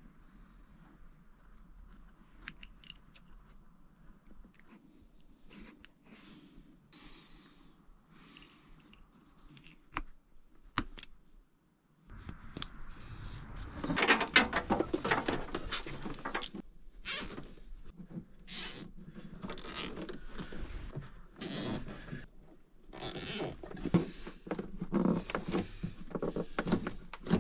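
Hands working with tools and parts, making irregular clicks, knocks and rustling. It is faint at first and gets much louder about twelve seconds in.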